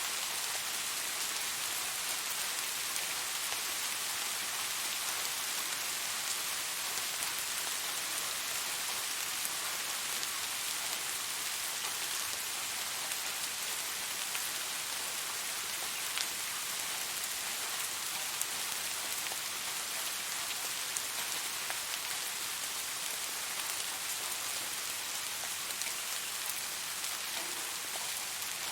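Steady rainfall: an even hiss of rain on surfaces with scattered individual drop ticks.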